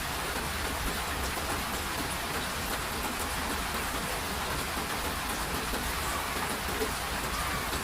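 Steady rain falling, an even hiss with no breaks, over a low steady rumble.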